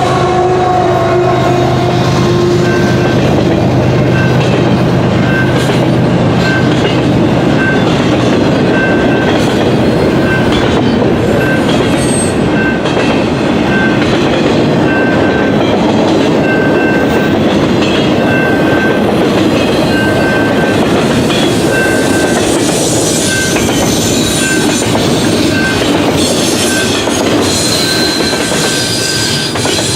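Long Canadian Pacific intermodal freight train rolling past at speed, a loud steady rumble of wheels on rail with clickety-clack over the joints. High-pitched wheel squeal comes in near the end.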